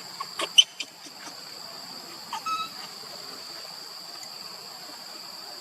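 Steady high-pitched drone of insects, with a few sharp clicks about half a second in and a short high call about two and a half seconds in.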